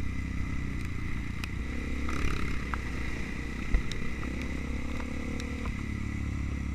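Trail motorcycle engine running steadily, with scattered clicks and rattles.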